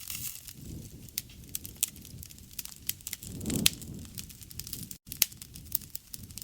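Wood fire crackling, with frequent sharp pops over a low rumble of flames; the rumble swells briefly about halfway through, and the sound cuts out for an instant about five seconds in.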